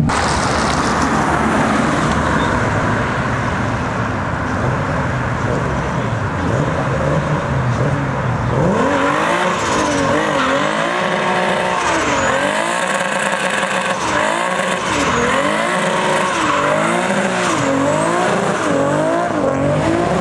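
Car engines running as cars pull away. About nine seconds in, a BMW E30 is drifted hard: its engine revs climb, hold and fall again and again, roughly every second and a half, with tyres squealing.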